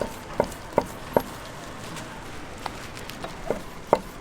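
Knife chopping sundae (Korean blood sausage) on a cutting board: four quick chops about 0.4 s apart, a pause, then several more chops near the end.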